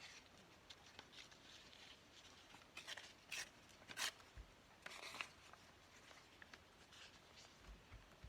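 Faint handling of paper scraps: a few short, soft rustles and swishes about three to five seconds in, otherwise near silence.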